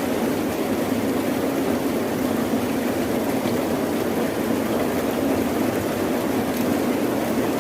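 Steady, unbroken rain with a deep rumbling undertone.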